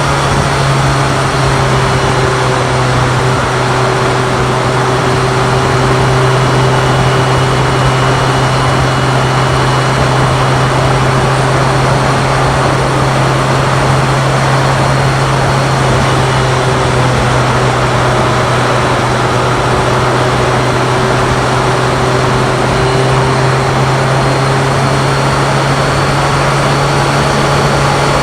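BMW K1100LT's inline-four engine running at a steady, constant speed while riding, a steady drone with wind and road noise.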